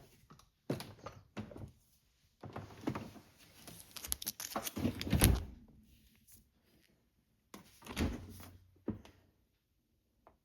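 Dishwasher being handled: several knocks and clatters as the rack and door are moved and a cleaning tablet goes in, the loudest thunk about five seconds in and another about eight seconds in.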